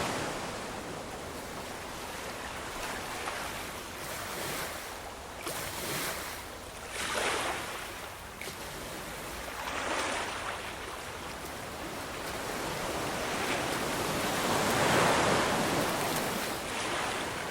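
Ocean waves washing onto a shore in a steady hiss of surf, swelling and easing as each wave comes in, the biggest surge about fifteen seconds in.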